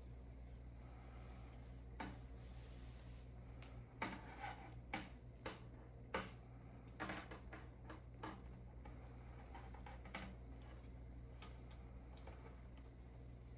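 Faint, irregular clicks and taps of small plastic parts and wire being handled while a Cat6 punchdown keystone jack is wired, over a steady low hum.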